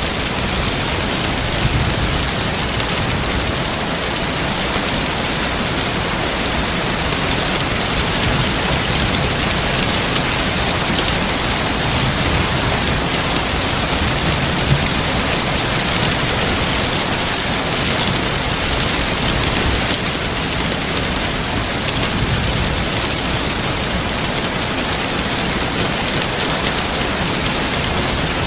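Heavy rain falling steadily: a dense, even hiss of rain on surfaces that does not let up.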